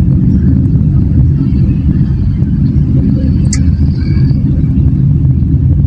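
Motorcycle riding along, its engine and wind noise making a steady loud low rumble. A brief high tone cuts in about three and a half seconds in.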